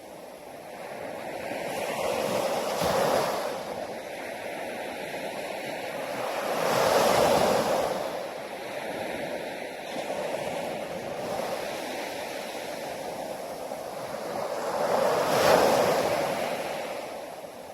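Sea waves breaking on a beach, three waves swelling and washing in about three, seven and fifteen seconds in, with a steady hiss of surf between them.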